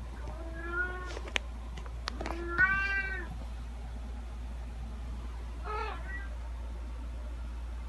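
Domestic cat meowing three times, the second meow the loudest. A few sharp clicks fall between the first two meows, over a steady low hum.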